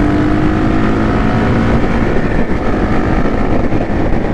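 Motorcycle engine running on the road, with heavy wind rush over the microphone; its pitch eases down slightly in the first second.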